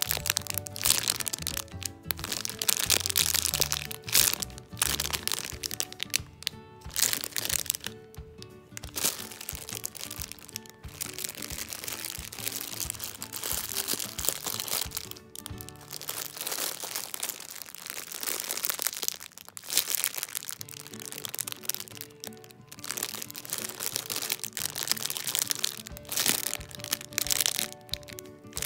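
Clear plastic packaging crinkling and crackling in irregular bursts as bagged foam squishy toys are squeezed and turned in the hands, over background music.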